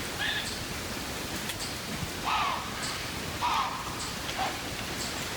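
Short, harsh bird calls over a steady background hiss. Two louder calls come about two and three and a half seconds in, with fainter, higher calls near the start.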